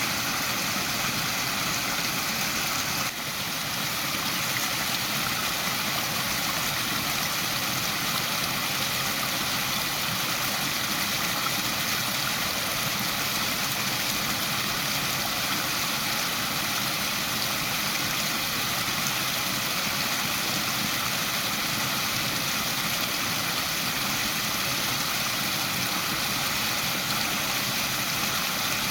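Waterfall pouring steadily, an even rushing of water, with a brief dip in level about three seconds in.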